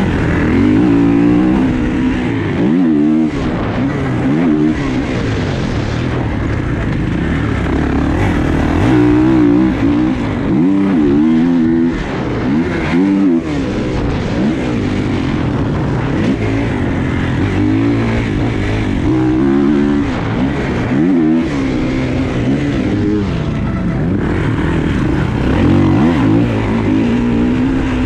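Dirt bike engine ridden hard around a motocross track, revving up and falling back over and over as the throttle is opened and chopped and gears change.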